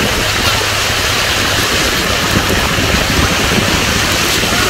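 Heavy rain and a car driving along a wet road: a steady, loud rush of rain and tyre spray.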